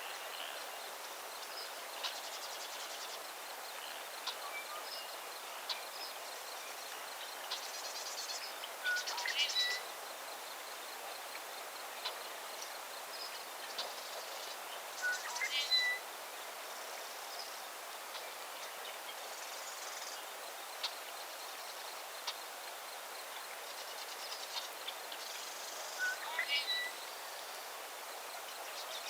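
Outdoor nature ambience with a steady hiss. A bird sings the same short phrase of several notes about every six seconds, with brief high buzzy trills in between.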